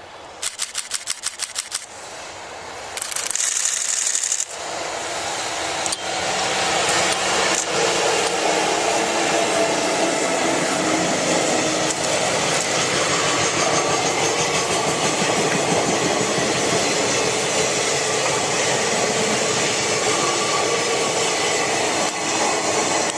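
Freight train hauled by EF64 electric locomotives passing close by, its wheels rattling steadily over the rails. It opens with a quick run of about eight sharp clicks and a short high hiss, and the train noise builds about five seconds in and stays loud.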